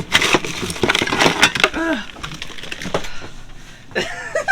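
Irregular knocks, clatter and scraping from handling on a boat, busiest in the first two seconds, with a short voice sound about two seconds in.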